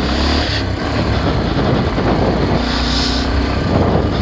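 Bajaj Pulsar 220F motorcycle's single-cylinder engine running steadily, under a loud, even rushing noise.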